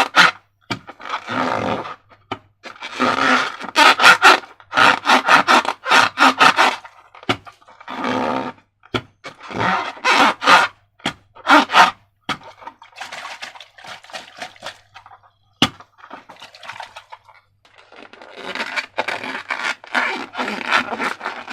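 Slime being squeezed and stretched by hand: irregular bursts of wet, crackling squelches with sharp clicks, broken by short pauses.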